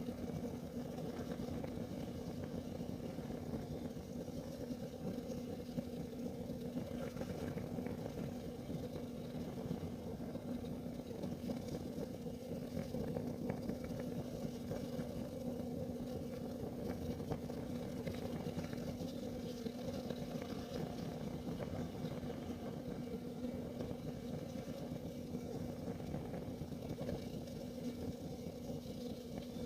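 Kerosene heater burning steadily: an even rushing flame noise with a constant low hum.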